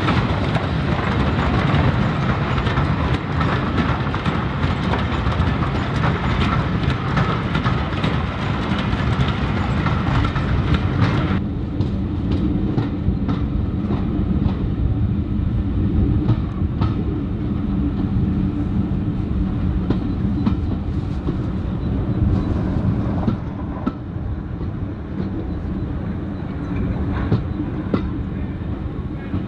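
Railway coaches running on steel rails: first the loud rolling rumble of a rake of coaches passing close by. From about 11 seconds in comes the duller, steadier rumble heard riding aboard a moving train, with the wheels clicking irregularly over rail joints.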